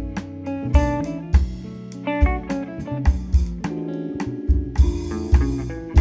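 A live instrumental band playing: guitar over bass and a drum kit, with regular low drum hits marking the beat.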